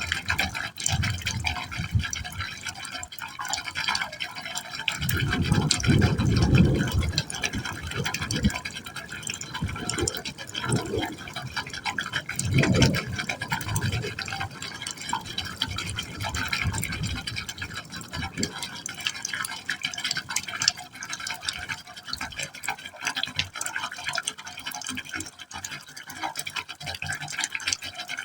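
Water falling into a pipe hole, splashing and gurgling unevenly, with a couple of deeper, louder gurgling surges.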